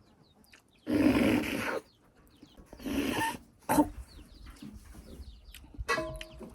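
Close-miked eating sounds of buffalo-foot soup and rice: two loud noisy mouth sounds, each about a second long, about a second in and again about three seconds in, with a sharp click and smaller wet mouth noises between.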